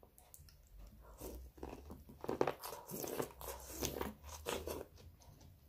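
A person eating close to the microphone: irregular biting, chewing and crunching, busiest in the middle of the stretch.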